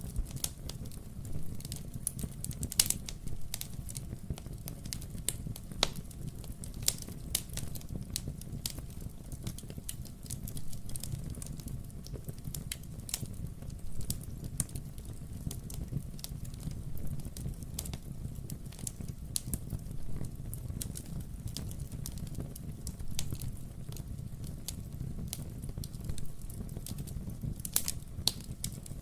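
Wood fire burning in a fireplace: a steady low rumble with frequent irregular crackles and sharp pops from the burning logs.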